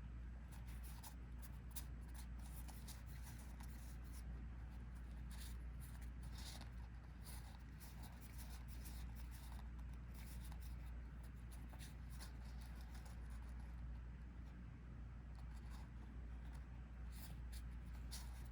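Trading cards being handled and sorted by hand: soft, irregular ticks and slides of cards against each other and the table, over a steady low hum.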